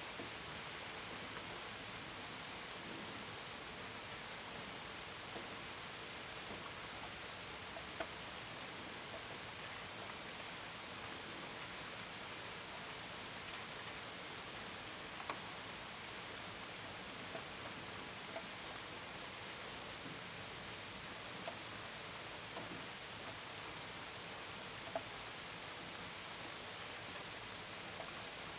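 Gentle steady rain hissing, with scattered sharp taps of individual drops. Crickets chirp throughout in a high, pulsing trill.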